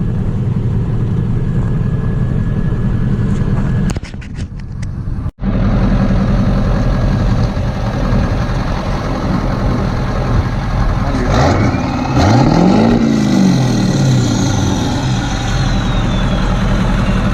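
Car engines running steadily, with a brief break about five seconds in. Near the middle, one engine revs up and back down.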